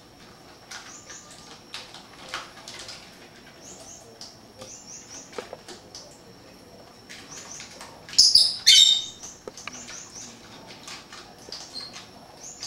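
Pet birds chirping: short, high chirps in quick runs of three or four. About eight seconds in, a louder, harsher burst lasting about a second.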